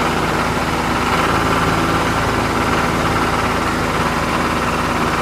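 Small electric motor of a DIY model tractor running steadily, with an even hum and a fast, regular buzz.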